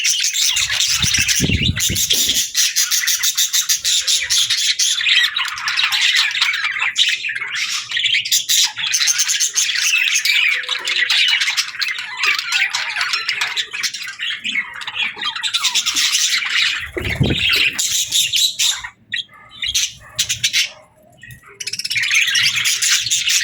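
A flock of budgerigars chattering continuously, with a dense mix of fast chirps, warbles and squawks. There are a few dull low thumps near the start and again about two thirds of the way in, and a brief lull near the end.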